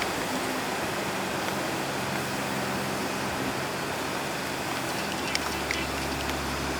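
Old car's engine idling with a steady low hum over background noise, with a couple of small clicks about five seconds in.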